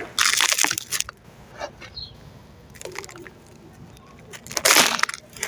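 Hand-made sand-cement chunks being crushed and crumbled by hand, with a dense gritty crunching in the first second. A few scattered small cracks follow, then another loud crunch near the end.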